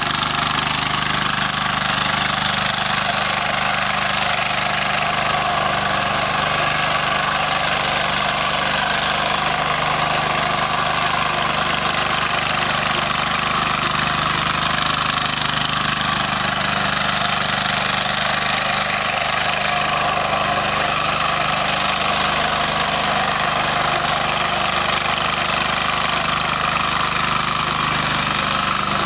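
Diesel mini tiller engine running steadily at an even speed.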